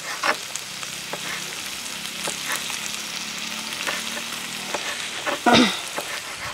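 Meat frying in oil, a steady sizzle, under irregular taps of a kitchen knife dicing tomatoes on a plastic cutting board. A brief vocal sound comes near the end.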